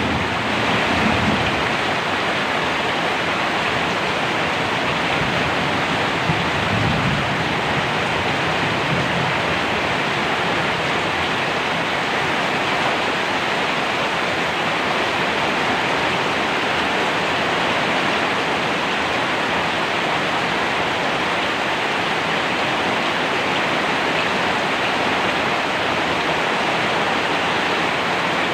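Steady rain, an even hiss throughout. A low rumble of thunder fades out in the first second or two.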